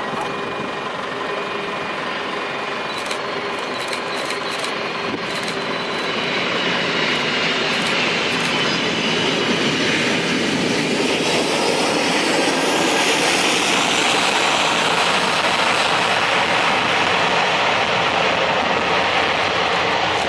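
Jet engines of a four-engined Boeing 747-400 freighter, a steady rushing noise that grows louder about six seconds in and then holds loud.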